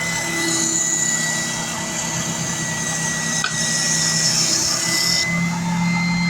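Electric sander running steadily with a motor hum and whine, grinding against the edge of a CNC-cut wooden part for about five seconds, then running free once lifted off.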